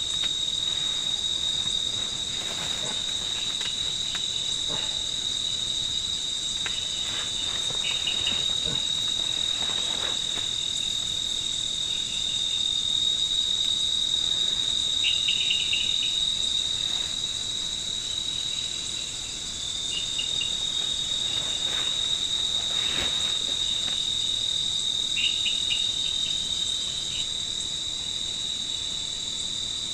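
Night insects in the forest: a steady, unbroken high trill, with shorter chirping bursts from other insects every few seconds and a few faint soft taps.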